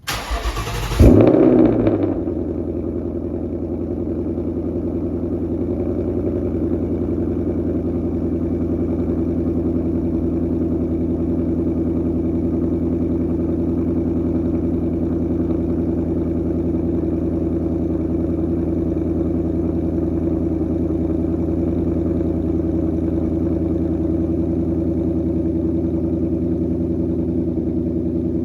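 A 2020 Mustang GT's 5.0-litre Coyote V8, breathing through a Thermal R&D cat-back exhaust, cold-starting. The starter cranks briefly, the engine catches about a second in with a loud flare, and by about two seconds it has settled into a steady cold idle.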